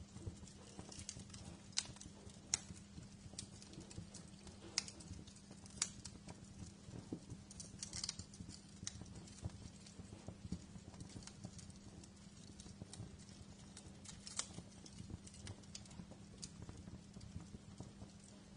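Wood fire crackling in a fireplace: irregular sharp pops and snaps over a steady low rumble and hum, with a few louder snaps in the first few seconds.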